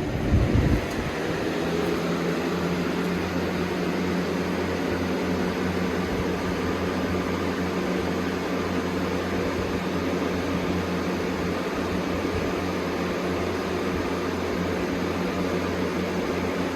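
Two box fans, a Holmes HABF-20 and a 2007 Lakewood 101, coming up to speed on high: the sound builds over the first second, then holds as a steady rush of air with a low motor hum.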